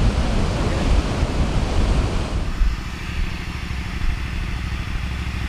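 Atlantic surf breaking, with wind buffeting the microphone. About two and a half seconds in, it cuts to a quieter steady low hum.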